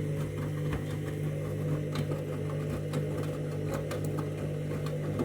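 Candy Grand'O Vita washing machine in its main wash, the drum motor running with a steady hum while light irregular clicks sound over it.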